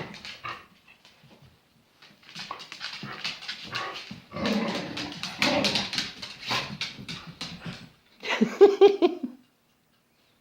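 A dog making a long run of grumbling, whining vocal noises, then a shorter, higher-pitched whine about eight seconds in.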